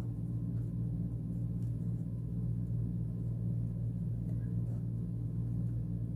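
A steady low hum with several even tones, unchanging throughout.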